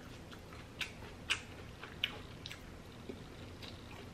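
Close-miked chewing of a mouthful of food: a handful of short, sharp, wet mouth clicks and smacks at irregular intervals.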